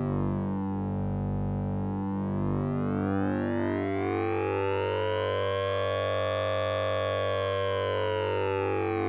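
Synthesizer drone from the Orange Vocoder plugin, made with oscillator sync and ring modulation: a steady low hum under a bright, buzzy band of overtones. The overtone band sweeps slowly down for the first second or so, then climbs over several seconds and falls again near the end, like a slow siren.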